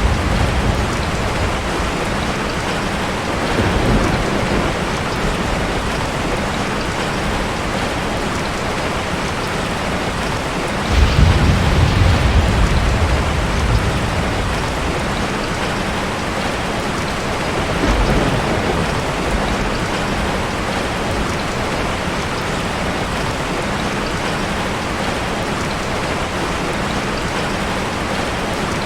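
Heavy rain falling in a steady hiss, with three low rolls of thunder: a small one a few seconds in, the loudest about a third of the way through lasting a couple of seconds, and a shorter one a little later.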